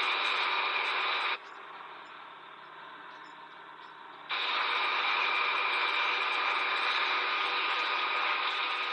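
Steady engine and road noise of vehicles driving at speed, from an old, hissy film soundtrack. It drops sharply quieter about one and a half seconds in and comes back up abruptly a little past four seconds.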